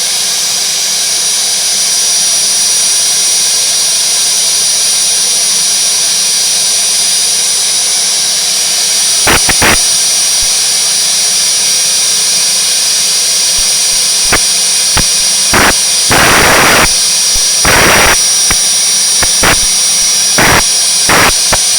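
Helicopter engine running steadily, a loud hiss with two high whining tones held throughout. From about halfway in, several short, loud rushes of noise break over it, the longest lasting about a second.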